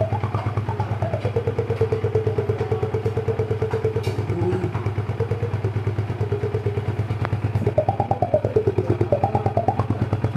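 Yamaha Vixion motorcycle's single-cylinder engine idling steadily through its exhaust, with an even, rapid pulse.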